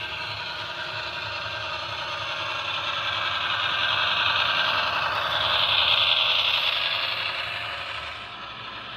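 HO-scale Broadway Limited model diesel locomotive running past on the layout track, its onboard diesel engine sound mixed with the mechanical running noise of the model. It grows louder to a peak about six seconds in, then fades.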